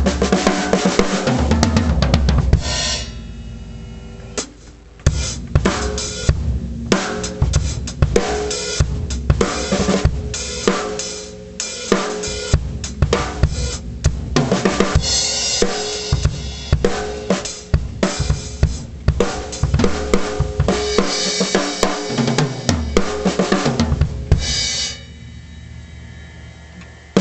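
A 1951–53 Slingerland Concert King 15x8 three-ply snare drum played within a drum kit, with bass drum and cymbals: fast runs of strikes and fills. The playing breaks off twice, about three seconds in and near the end, leaving the drums ringing out.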